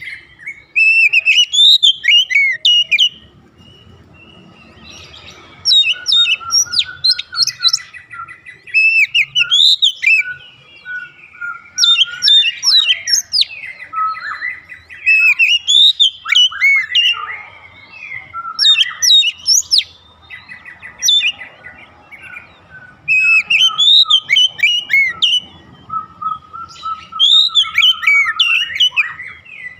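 Oriental magpie-robin singing: loud bursts of rapid, sweeping whistles and chirps, each run lasting a few seconds, with short pauses between them.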